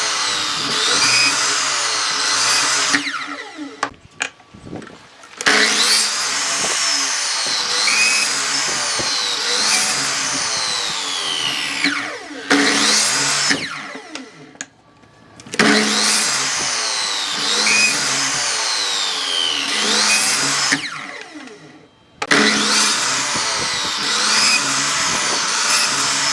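Electric power tool working wood in runs of several seconds, broken by short pauses, its motor pitch sweeping up and down as it loads and unloads.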